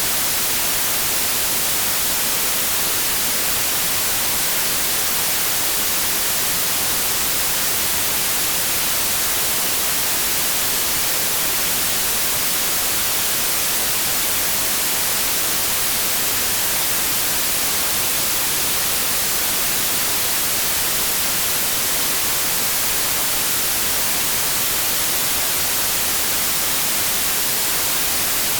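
Steady electronic white noise: an even, unbroken hiss with no changes, its energy weighted toward the high end.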